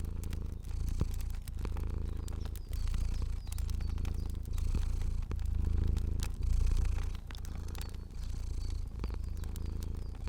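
Domestic cat purring steadily, the purr rising and falling in even cycles about once a second, with sharp pops and crackles of a fire scattered over it.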